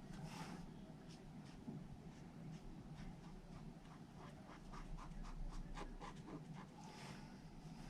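Faint scratching of a blender pen's tip stroked across cardstock, a run of short quick strokes that comes thickest a little after the middle.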